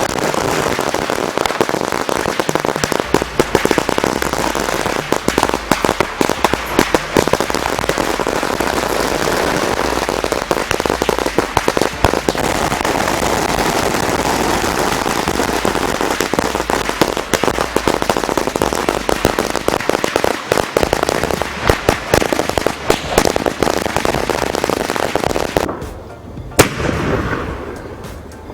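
Firecrackers going off in a dense, continuous stream of crackling bangs. It thins out near the end, where one sharp, loud bang stands out.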